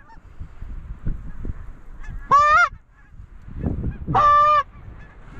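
Two loud goose honks, one about two seconds in and one about four seconds in, each a short, clear, high note lasting about half a second, over low wind noise.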